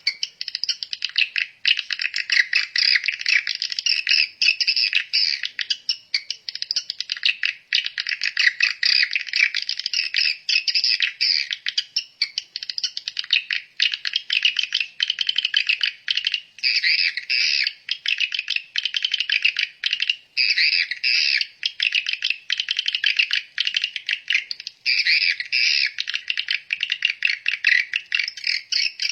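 Many small birds chirping in a dense, unbroken chatter of high, rapid twitters.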